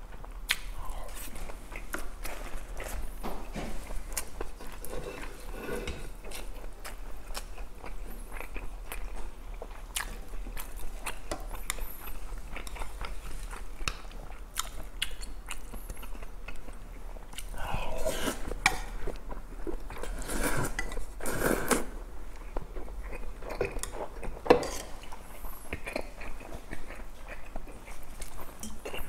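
Close-up mukbang eating sounds: a man biting into and chewing large steamed dumplings and cold noodles, with many small wet mouth clicks. The chewing gets louder for a few seconds about two-thirds of the way through.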